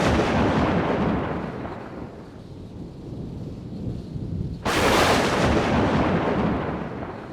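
Thunder: a rumble dies away over the first couple of seconds, then a sharp thunderclap cracks about four and a half seconds in and rolls off into a low rumble.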